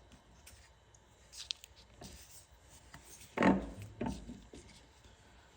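Quiet hand-handling sounds as blue painter's tape is pressed into place on a metal propeller shaft: faint scattered clicks and rubbing, with a louder rub and knock about three and a half seconds in and a smaller one just after.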